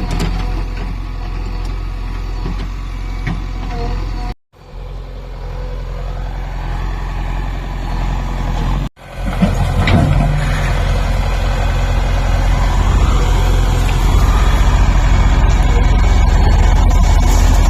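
A JCB machine's engine runs steadily with a deep rumble, cut off sharply twice and getting louder from about halfway through.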